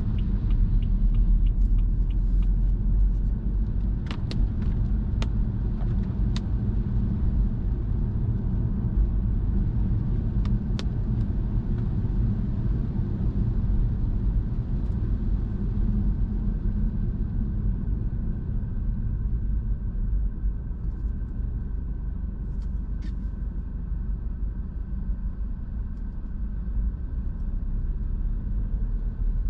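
A car driving: a steady low rumble of engine and tyres on the road, with a few sharp clicks along the way. A lighter road hiss fades about halfway through.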